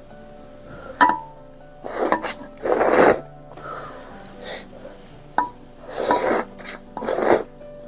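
Close-miked eating sounds: several short, loud slurps and mouth noises, about five in all. Quiet background music runs underneath.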